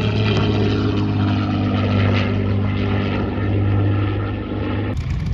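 Propeller aircraft engine running with a steady low drone that cuts off abruptly near the end.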